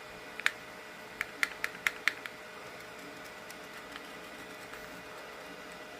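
About seven light, sharp clicks in the first two seconds, small hard plastic pieces knocking together as 3D-printed slugs are handled, over a faint steady hum.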